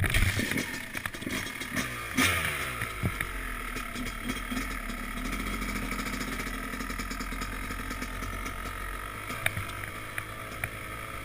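Yamaha YZ250X two-stroke dirt bike engine starting up and being revved for the first few seconds, then settling into a steady idle while still cold.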